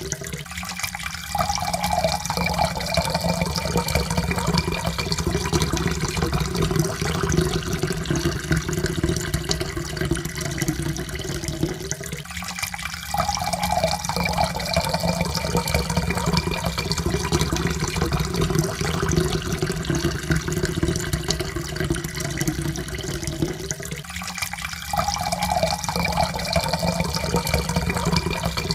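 Water poured in a steady stream into a cup, the pitch rising slowly as the cup fills. The pour breaks off and starts again low about every 12 seconds, three times.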